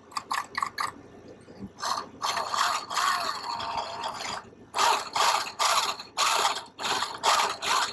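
A toy RC truck's small electric motor and gears whirring in short throttle bursts: four quick blips, then a longer run with a wavering whine, then a string of half-second bursts. The wheels are spinning off the ground as the newly installed rear differential and drive line are tested, and they work.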